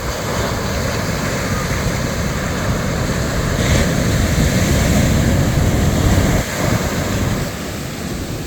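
Ocean surf breaking and washing in along a beach: a steady rushing wash, heavy in the low end, that swells to its loudest around the middle and eases off toward the end.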